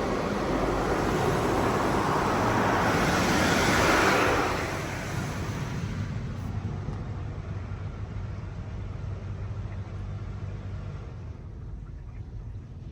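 Touch-free automatic car wash (PDQ LaserWash G5-S) spraying water over the car, heard from inside: a rushing spray that swells to its loudest about four seconds in and then falls away, leaving a quieter low hum of the machinery.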